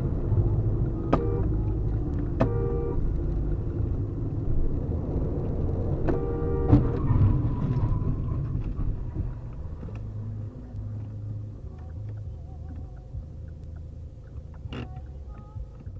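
Steady low rumble of a car driving, heard from inside the vehicle as a dash camera picks it up, easing off in the second half. Two brief pitched tones come about four seconds apart, with a few sharp clicks, and there is a single sharp knock near the end.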